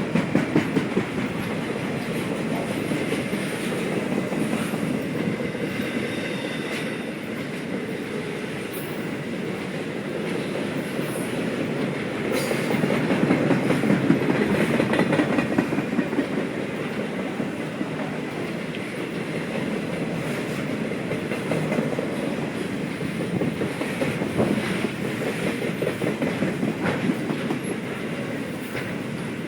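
Railroad cars of a long train rolling past, steel wheels clicking over the rail joints above a steady rumble. The sound swells louder about halfway through.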